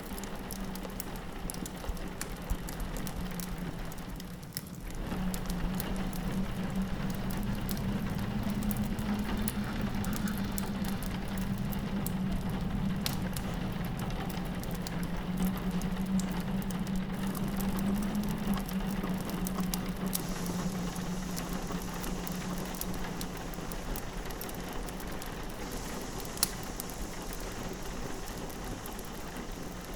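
Rain pattering steadily on a window, over a fireplace crackling in scattered sharp ticks. A low moan of wind swells and fades beneath them.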